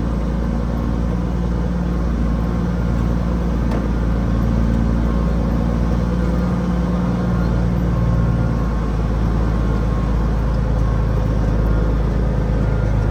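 Heavy truck's diesel engine running steadily as the truck works down a slippery job-site grade where its wheels have been spinning. Its note changes about two-thirds of the way through.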